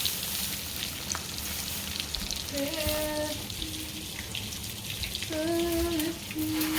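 Breaded chicken strips frying in hot oil, a steady sizzle. A voice twice holds short steady notes, about two and a half and five seconds in.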